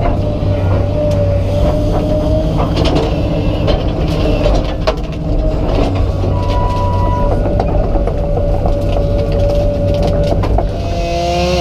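Komatsu PC200 excavator's diesel engine running under load with a steady hydraulic whine, its pitch shifting near the end, over scattered cracks and knocks.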